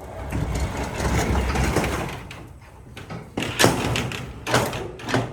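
Garage door rumbling as it slides open for about two seconds, followed by several sharp clunks.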